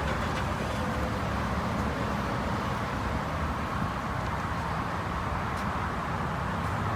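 Steady background noise, a low rumble with an even hiss, holding level throughout.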